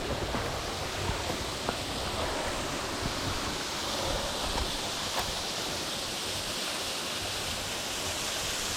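Steady rush of a small waterfall running low, its water splashing down into the creek, with a few faint clicks.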